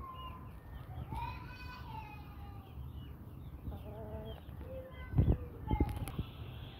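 Brahma chickens clucking and calling, with drawn-out falling calls in the first half and many short high chirps throughout. A few loud thumps come about two-thirds of the way in.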